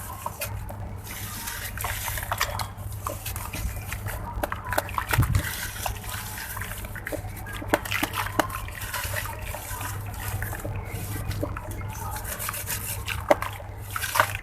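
Grainy red sand-cement blocks soaking in water and crumbling, with a dense run of small crackles and pops over a steady low hum.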